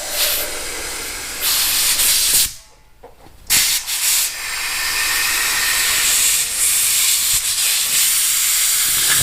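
Compressed air hissing through an air chuck into the inner tube of a motorcycle's front tire, in two bursts: a short one, a brief stop, then a long steady one. The tube is getting a little air to give it shape before it is pushed back into the tire.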